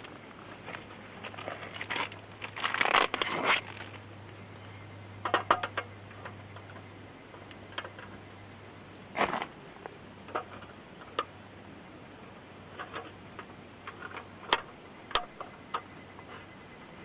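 Scattered clicks, clinks and scrapes of small objects being handled, with a longer stretch of rustling a couple of seconds in and other short bursts around five and nine seconds in.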